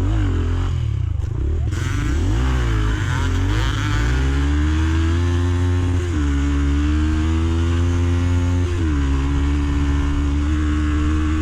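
Rieju Marathon Pro 125 dirt bike's single-cylinder engine heard from on the bike while riding, revving up and down over the first few seconds, then holding a steady pitch with two brief dips about six and nine seconds in. Wind rumbles underneath.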